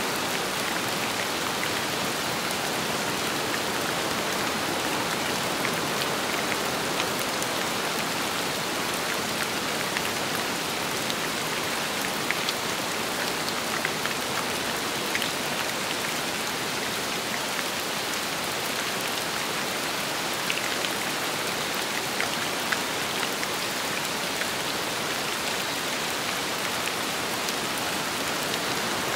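Steady rain falling with wind, an even wash of sound with scattered sharper drop hits.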